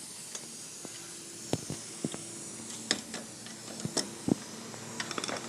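Scattered light clicks and knocks over a steady hiss and faint hum.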